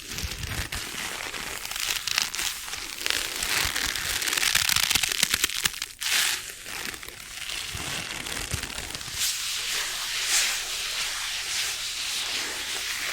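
Close-miked crinkling and crackling made up of dense small clicks, with a brief break about six seconds in.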